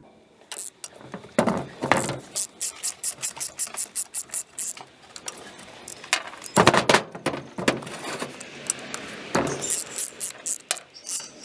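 Hand ratchet wrench clicking in quick runs of about five clicks a second, with a few heavier knocks between, as bolts on the pump are worked loose.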